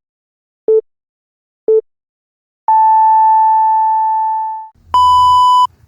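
Electronic countdown beeps: two short low beeps a second apart, then a long higher beep that fades away, followed by a short, brighter buzzy tone.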